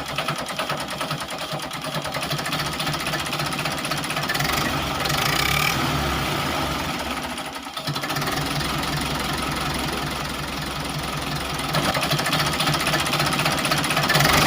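Tractor engine running steadily with a rapid knocking beat. It dips briefly about eight seconds in and gets louder near the end.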